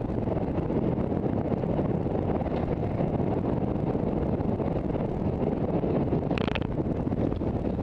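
Steady wind noise on the microphone mixed with road noise from a moving vehicle.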